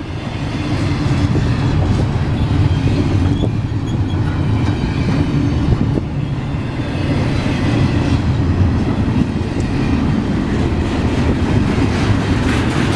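A freight train rolling past, its cars making a steady, loud rumble.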